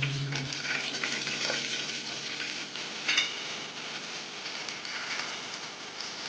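Food sizzling as it fries in a pot, stirred with a metal spoon, with small scrapes and one louder clink of the spoon against the pot about three seconds in.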